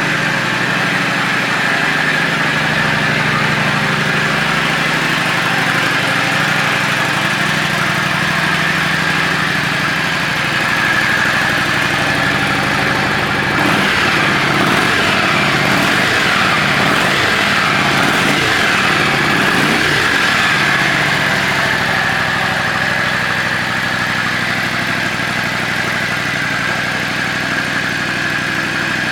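Yamaha Drag Star 400's V-twin engine idling through a custom muffler. About halfway through, the engine speed rises and falls for several seconds before it settles back to a steady idle.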